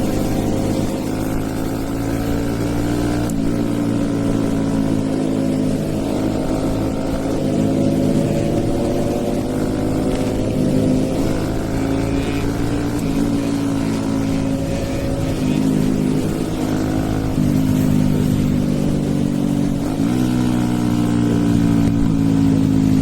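Stage-2-tuned Hero Eco 150 single-cylinder motorcycle engine pulling under load from the rider's seat. Its pitch climbs slowly and then drops sharply several times as it shifts through the gears.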